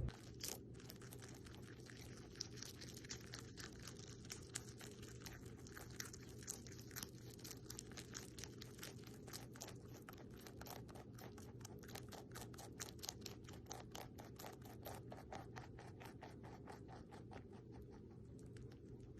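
A rabbit chewing: faint, rapid crunching clicks, several a second, over a low steady hum.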